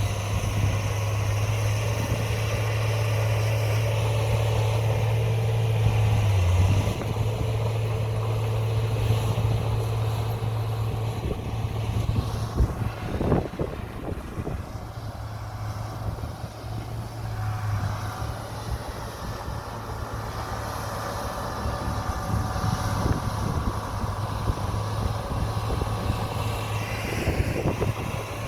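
Komatsu bulldozer's diesel engine running under load as it pushes soil. The engine note is steady and eases off about six seconds in, with a few short knocks midway.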